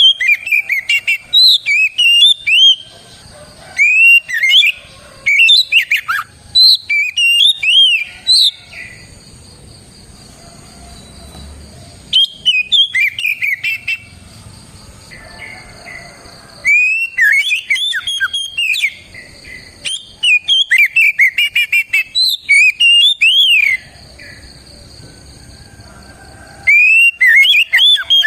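Oriental magpie-robin (kacer) in full song: loud bursts of rapid, sliding whistled and chattering notes, each phrase lasting a few seconds, with short pauses between phrases.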